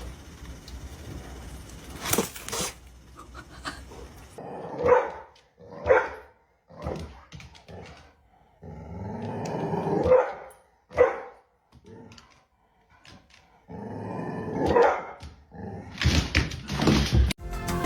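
A dog barking several times, in single barks with pauses between them.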